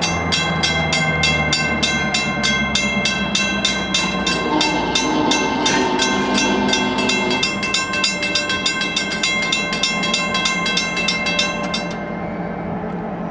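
Railroad grade-crossing bell ringing rapidly, about four strikes a second, then stopping about 12 seconds in, over the rumble of a diesel locomotive.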